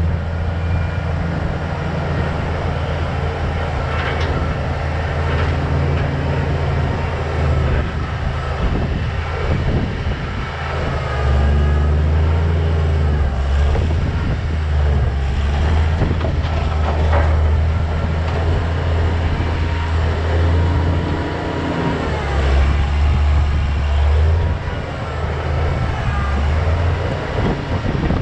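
A heavy engine running at low revs, its drone shifting up and down with load, with occasional thin squeaks over it.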